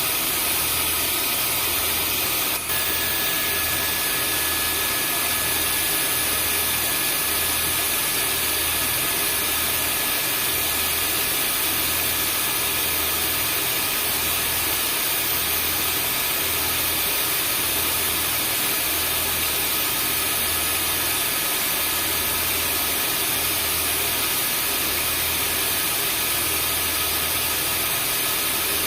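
Vacuum cleaner motor running steadily with a constant rush of airflow, and a low throb pulsing about once a second underneath. There is a brief dropout about two and a half seconds in.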